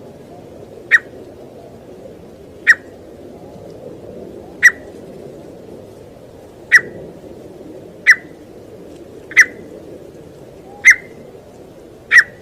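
A teetar (partridge) giving short, sharp single call notes, eight in all, one every second and a half or so, over a steady low background noise.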